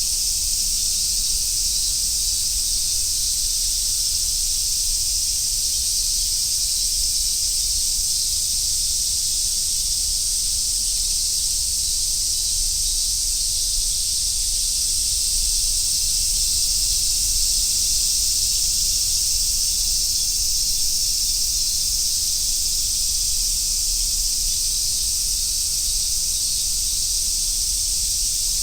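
Chorus of Japanese summer cicadas, large brown cicadas and robust cicadas, singing together in a steady high hiss that never breaks.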